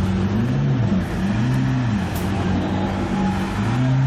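Supercar engine idling with a steady low hum, blipped three times so that the pitch rises and falls about half a second in, around a second and a half in, and again near the end.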